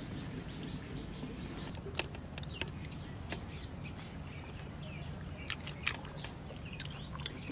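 Outdoor ambience with a steady low hum, a few short bird chirps and scattered small clicks.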